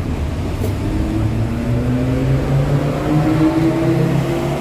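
Road vehicle's engine accelerating, its pitch rising steadily for about three seconds before levelling off, over a low traffic rumble.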